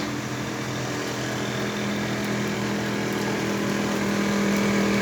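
A steady motor or engine hum at an even pitch, growing slowly louder.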